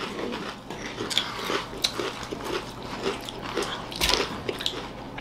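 People chewing crunchy tube-shaped fried finger chips, a close run of small irregular crunches and mouth noises.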